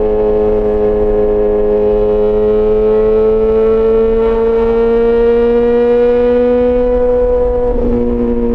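Yamaha XJ6 S's inline-four engine, fitted with an SC-Project aftermarket exhaust, pulling under throttle with its pitch rising slowly and steadily. Near the end the pitch drops and wavers briefly before settling.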